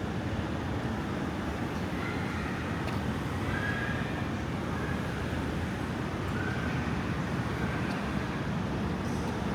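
Steady low rumble of outdoor background noise, like distant road traffic, with a few faint short high tones in the middle.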